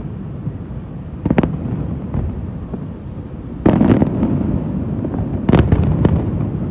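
Aerial fireworks exploding: a sharp report about a second in, a heavier burst of bangs near the middle, and a quick cluster of several bangs near the end, over a continuous low rumble.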